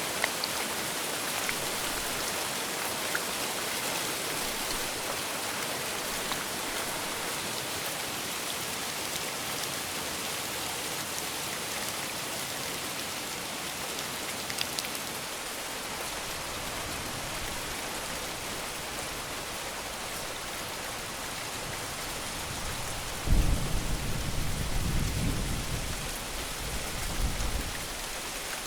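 Steady heavy rain falling, with a low rumble of thunder that starts suddenly near the end and fades out over about five seconds.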